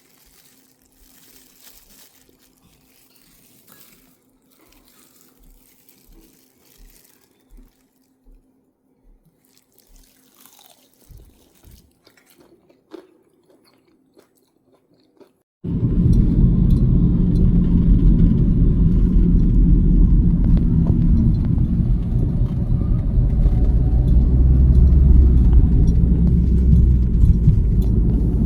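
Faint light taps and clicks with a low hum, then about halfway a sudden cut to the steady low rumble of a car driving, its road and engine noise heard from inside.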